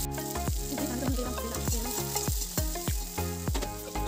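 Sliced bitter gourd and onion sizzling in hot oil in a metal wok as a slotted spoon stirs them. Instrumental background music with notes about three a second plays over it.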